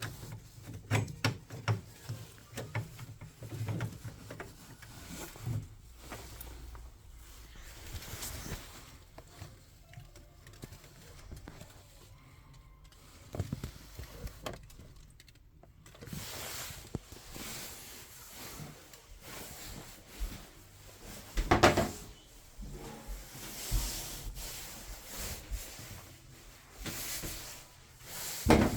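Irregular knocks, clicks and rattles of hands and tools working on a gas combi boiler's casing and internal parts, with one louder knock about three-quarters of the way through.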